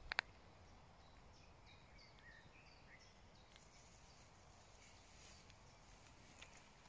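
Near silence with faint bird chirping: a run of short, high chirps, some falling in pitch, in the first few seconds. Two quick clicks right at the start.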